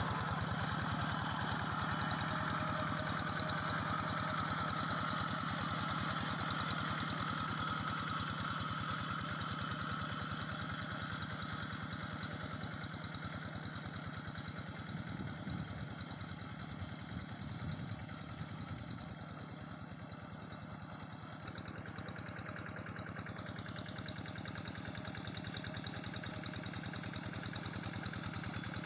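Quick G3000 SEVA hand tractor's diesel engine running steadily with an even firing beat. It grows gradually fainter until a little past the middle, then louder again near the end.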